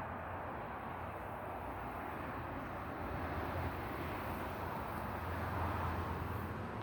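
Steady low rumbling background noise outdoors, swelling a little midway, with no distinct events.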